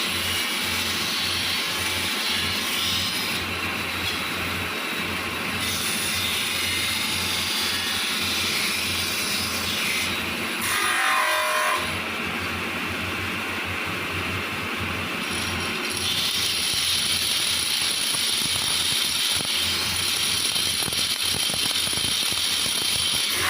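A workshop power tool running steadily with a low motor hum and a hiss. Its sound shifts a few times as the work changes.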